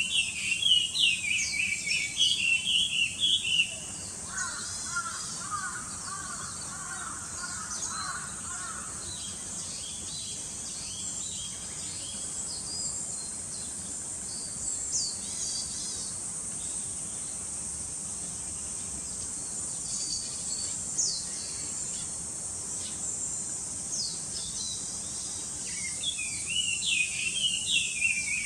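Wild birds calling: bursts of busy chirping near the start and again near the end, with short, sharp, high calls scattered in between. Under them runs a steady, high-pitched insect drone.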